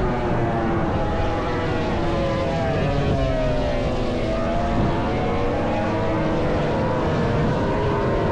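MotoGP racing motorcycle engines heard from trackside, several at once, their pitch sliding up and down as they rev, shift and pass.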